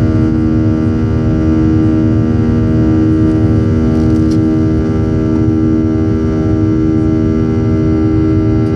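Boeing 737-800's CFM56 turbofan engines heard from inside the cabin, running steadily: a loud low rumble with a steady drone of many fan tones.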